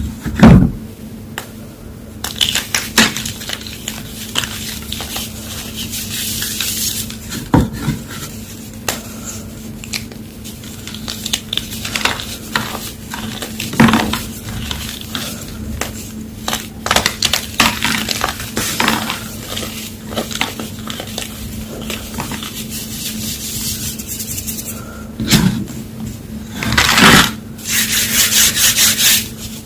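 Homemade gym chalk blocks being crushed: crunchy cracks and snaps over a gritty crumbling rustle. The loudest crack comes about half a second in, and a burst of dense crunching comes near the end.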